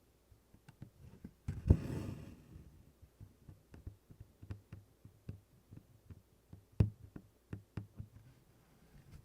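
Needle pricking through stiff 24-count Congress cloth in a string of small, irregular clicks and taps, with a longer rustle of floss about two seconds in.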